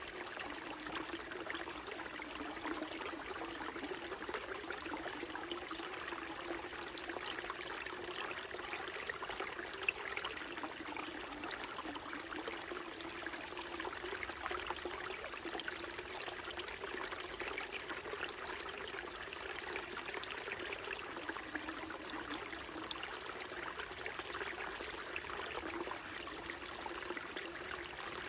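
Small mountain stream flowing steadily over rocks, a continuous babbling and trickling of water.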